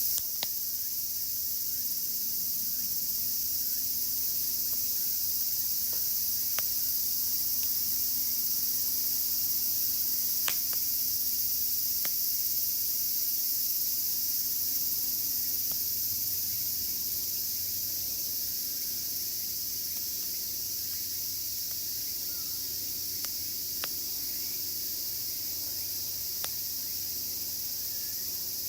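Dense chorus of cicadas, a steady high shrill that never lets up. It is broken by a few faint scattered pops from the burning campfire wood.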